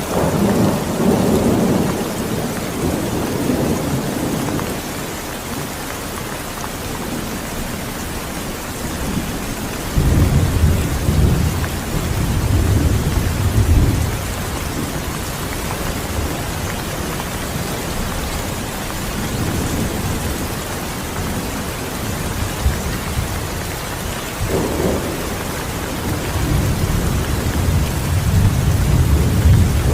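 Steady rain with thunder rumbling low three times: at the start, about a third of the way in, and building again near the end.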